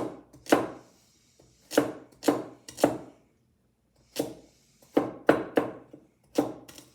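Kitchen knife chopping carrots against a cutting board: about ten sharp, uneven chops, with a pause of about a second midway.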